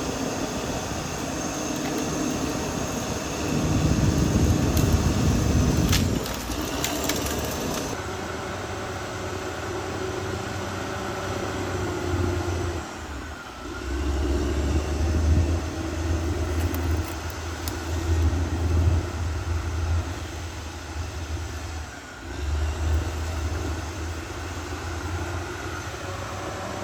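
Caterpillar D6R XL bulldozer's diesel engine running under changing load, swelling and easing again and again. There is a louder surge about four seconds in, a few sharp knocks around six seconds in, and two brief drops in the engine sound later on.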